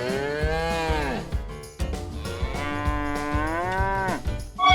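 A cow mooing twice, two long drawn-out calls, over soft background music with a low beat.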